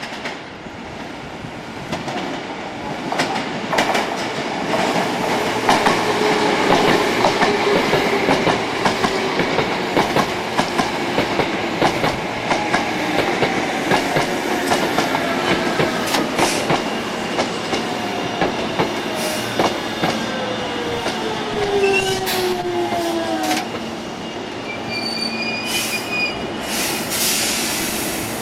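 Hankyu electric train running through a station: steady rolling rumble with wheels clicking over rail joints, and a whine that falls in pitch as the train slows. A thin high wheel squeal comes in near the end.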